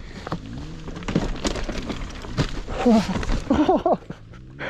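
Dirt bike engine idling low, with scattered knocks and clatter, and a few short strained vocal sounds from a rider a little after the middle.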